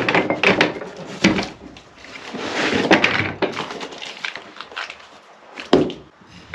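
Handling noises: a run of knocks and clatter, then a few seconds of scraping or rustling, and one sharp knock near the end.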